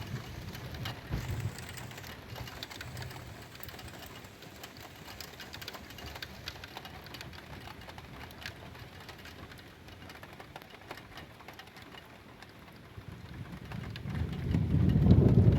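Steady rain with scattered drops ticking. Near the end a low rumble of thunder builds up and swells to the loudest part.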